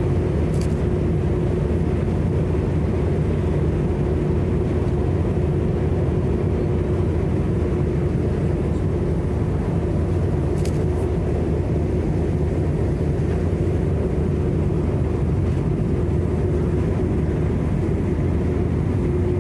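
The Aurora drift-ice sightseeing icebreaker's engines and hull drone steadily, heard from on board as a constant low rumble with a held hum. There are two faint ticks, one near the start and one about halfway through.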